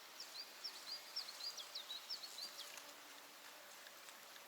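A small songbird singing one phrase of about ten quick, high notes over the first two and a half seconds, above a faint steady hiss.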